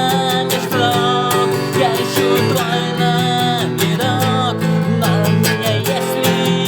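Acoustic guitar strummed in a steady rhythm, with a melody line of long held notes over it.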